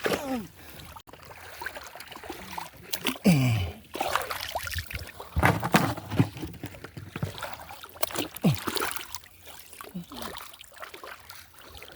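Water splashing and trickling in the shallows, with scattered small knocks and clicks.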